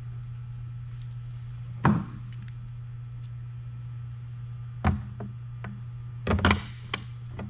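A few sharp knocks and clunks of hand tools and board parts being handled and set down during reassembly: one about two seconds in, another near five seconds, and a quick cluster near the end. A steady low hum runs underneath.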